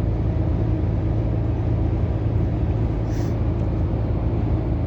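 Steady low drone of a Scania R500 truck's engine and road noise heard inside the cab while driving, with a brief faint high hiss about three seconds in.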